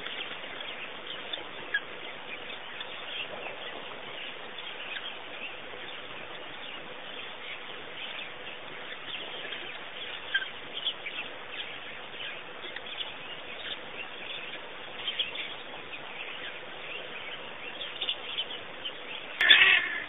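Outdoor ambience with a steady hiss and scattered short bird chirps. A louder sudden sound comes just before the end.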